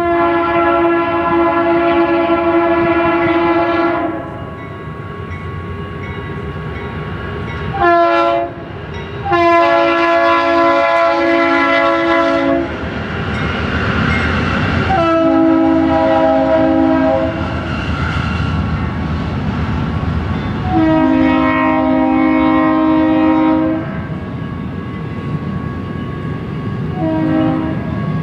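Air horn of a BNSF GE C44-9W diesel locomotive, an odd-sounding chord of several notes, sounding a run of about six blasts, mostly long with a short one about eight seconds in and another near the end. Between blasts the approaching train's engines and wheels rumble.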